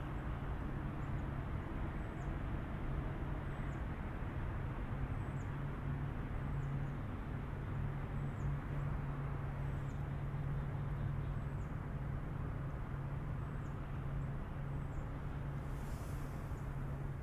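A small bird repeating a short, high, falling call about once every second, over a steady outdoor background rumble with a low hum.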